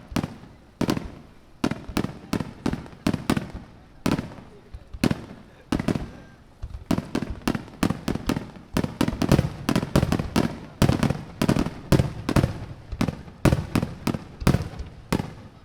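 Aerial firework shells bursting in quick succession. There are sharp bangs about two or three a second, each trailing off in a low rumble, and the volleys grow denser about halfway through.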